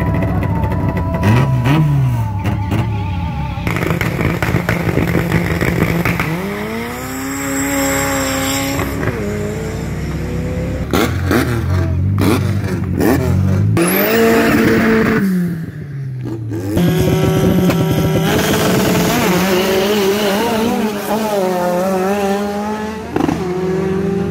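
Race car engines at a drag strip, revving up and falling back again and again. About sixteen seconds in there is a brief drop, and after it an engine runs on with a wavering note.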